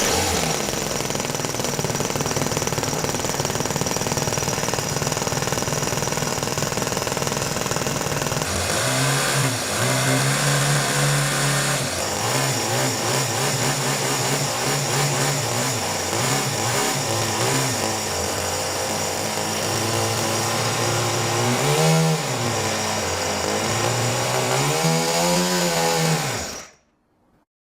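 Small four-stroke model engine running at high speed. Its pitch drops and recovers a few times, and it cuts off suddenly near the end.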